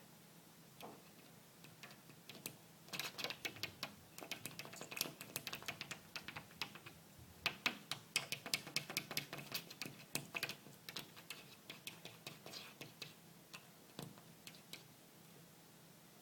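A house cat's claws tapping and clicking on window glass in quick, irregular runs. The taps start about a second in and die away near the end.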